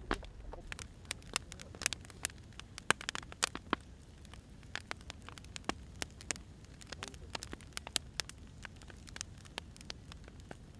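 Wood fire crackling, with irregular sharp pops and snaps over a low steady hiss of flame.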